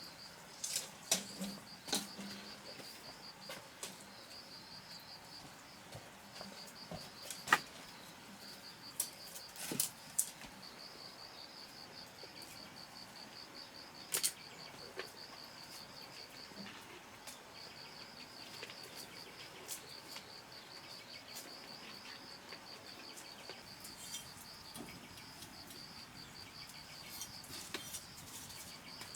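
Insects trilling steadily in a high, finely pulsing chirr that breaks off briefly now and then, with scattered sharp knocks and clicks, the loudest about seven and a half seconds in.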